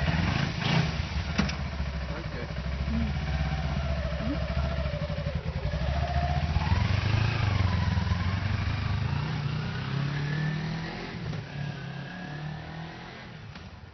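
Kawasaki Ninja 250R's parallel-twin engine running under way, its pitch rising and falling as the throttle is worked, with a couple of sharp clicks in the first second and a half. The sound fades down over the last few seconds.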